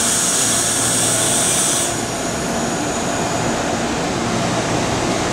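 Loud, steady rushing noise of a train at a station platform, with a high hiss on top that cuts off sharply about two seconds in.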